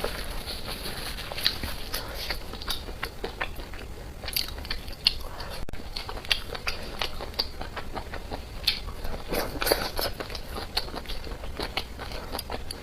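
Close-miked eating: a person biting and chewing food, with a steady run of irregular crunchy clicks and crackles.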